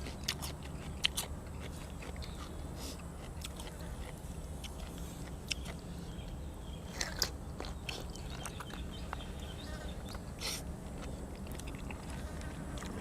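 A person eating grilled cuttlefish and raw vegetables: chewing with scattered short bites and crunches, over a steady low hum.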